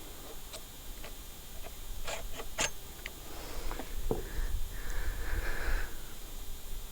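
Light clicks and knocks of brushcutter shaft and coupling parts being handled and fitted, with a brief rubbing sound in the second half.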